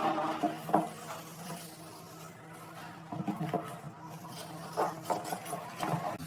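Scattered light knocks and clicks over a faint steady low hum.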